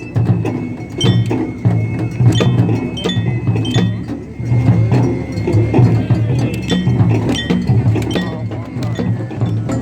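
Japanese festival hayashi music: drums beat under a small metal hand gong struck in a steady, ringing rhythm.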